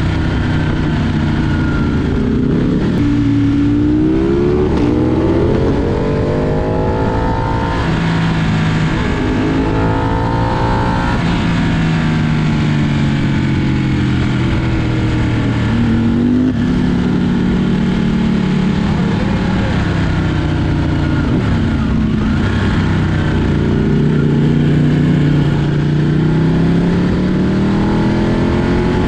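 Ducati Panigale superbike engine under way, its pitch rising under acceleration and falling back again several times as the rider rolls on and off the throttle and changes gear.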